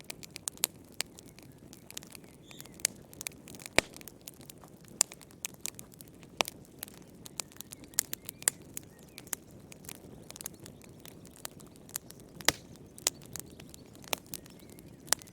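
Wood fire crackling in a fireplace: irregular sharp pops and snaps, several a second, over a faint low hiss, with two louder pops about four seconds in and again near the end.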